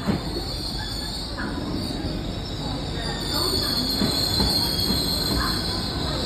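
Great Western Railway Class 800 train pulling into a platform and slowing, with a steady high-pitched squeal over a low rumble. The squeal grows louder about three and a half seconds in.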